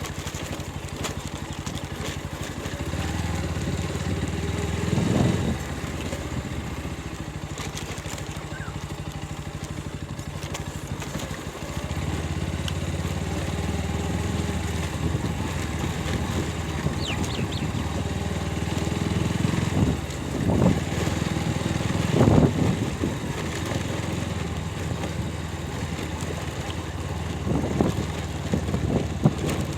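Motorcycle engine running steadily while riding, growing louder for stretches, with a few brief louder swells.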